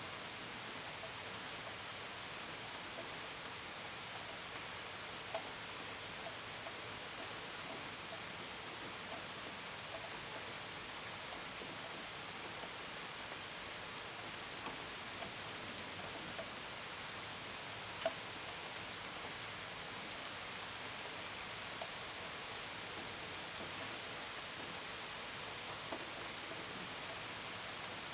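Steady gentle rain with scattered drops pattering on a window and gutters, one drop standing out about two-thirds of the way through. Crickets chirp in short, evenly repeated pulses high above the rain.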